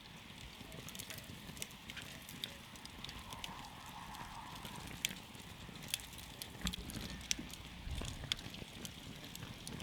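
Wood campfire crackling: irregular sharp pops and snaps, a few each second, over a low steady rumble.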